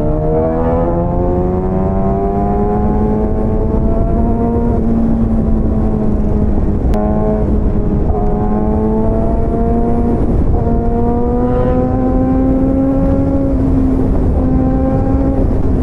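Motorcycle engine pulling through the gears under steady acceleration: its note climbs slowly, then drops back at each upshift, four times, over a heavy rumble of wind and road noise.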